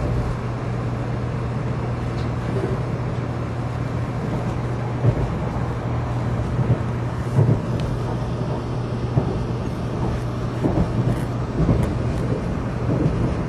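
Running noise inside a 700 series Shinkansen carriage at speed: a steady low hum and rush with a few brief knocks scattered through it.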